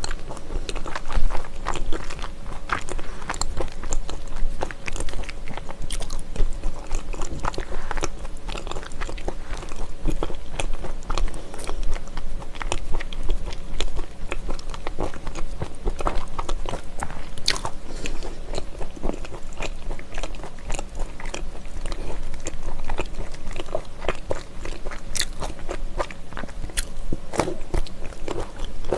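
Close-miked chewing and biting of homemade dried persimmon (gotgam): a dense run of small wet clicks and smacks from the mouth throughout.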